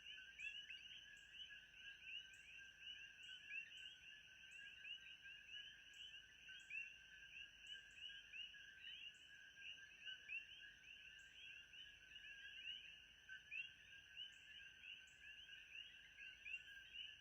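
Faint steady chorus of many overlapping rapid chirps from night-calling animals, with a thin steady high whine above it, used as a continuous background ambience.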